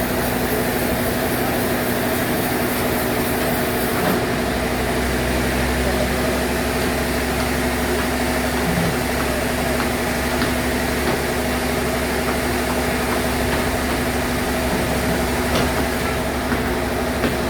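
Sawmill bandsaw running steadily, a constant mechanical hum with a deeper rumble that comes in about four seconds in.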